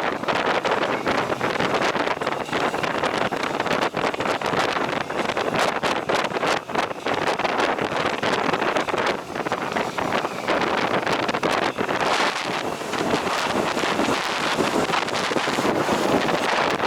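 Wind buffeting the microphone on a moving motorcycle: a loud, steady rushing with constant irregular buffets, and no engine note standing out.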